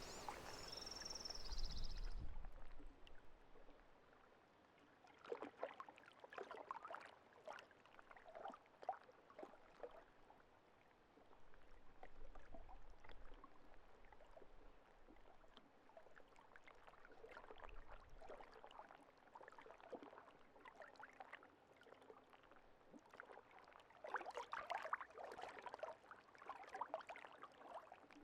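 Faint lake-shore water ambience: small ripples lapping and trickling in irregular splashes, with a short bird call in the first two seconds.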